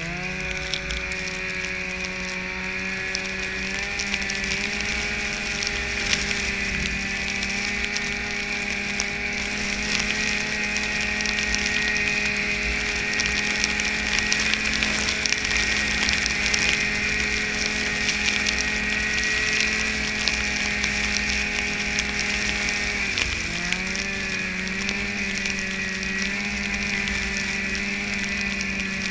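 Snowmobile running at speed, its engine note climbing in the first few seconds and holding steady, dipping briefly about 23 seconds in and picking up again, over a steady mechanical clatter and hiss from the track and drive.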